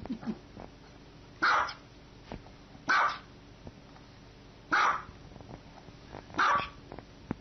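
Small white dog barking four times, single short barks about one and a half seconds apart.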